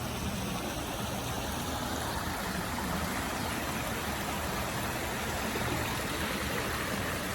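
Steady rushing water with a faint low hum underneath, even and unchanging throughout.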